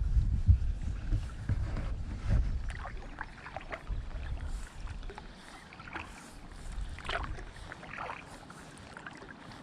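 Kayak paddling: water splashing and dripping off the paddle blades in short, scattered splashes. Wind rumbles on the microphone for the first two or three seconds, then dies away.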